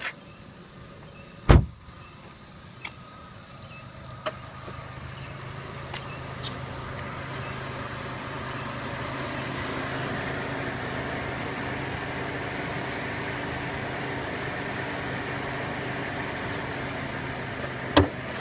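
2014 Chevrolet Sonic's four-cylinder engine idling steadily, growing louder over the first half and then holding level. A sharp loud click sounds about a second and a half in, with a few faint ticks after it and another sharp click near the end.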